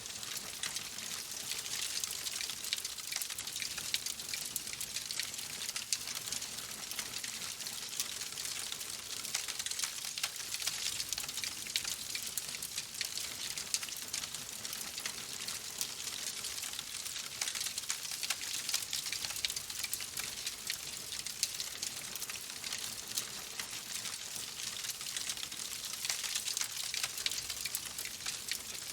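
Wood fire crackling in a fireplace: a dense, steady run of small snaps and ticks over a soft hiss.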